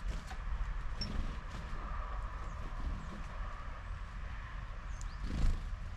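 Small birds at a garden feeder: scattered tapping and pecking clicks and a brief high chirp about a second in, over a steady low rumble.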